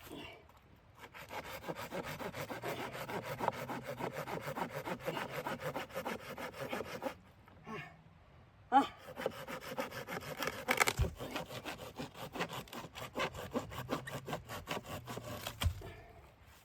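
Wood being cut with a hand saw in quick, even strokes, in two runs with a short pause about seven seconds in and a sharp knock as the second run starts.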